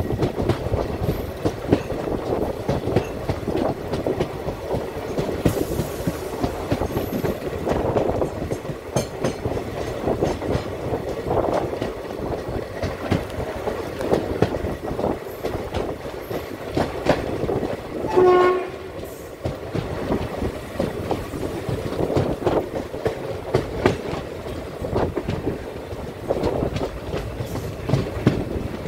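Express train coach wheels clattering steadily over the rail joints as the train runs through a station, heard close up from the coach doorway. About eighteen seconds in there is one short horn blast from the locomotive.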